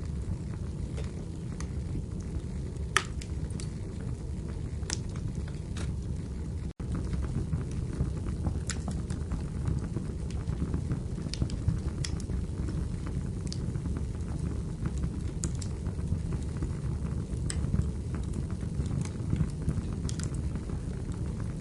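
Wood fire burning in a fireplace: a steady low rumble of flames with scattered sharp crackles and pops of the firewood. The sound drops out for an instant about seven seconds in.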